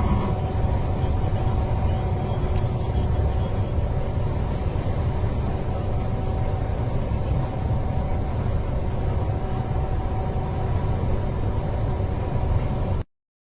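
Steady low rumble of a moving vehicle, as picked up by a dashcam, which cuts off abruptly near the end.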